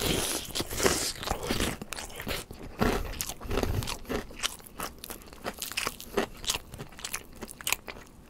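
Close-miked eating sounds: crisp crunching bites and chewing, a rapid irregular run of crackles, louder in the first half.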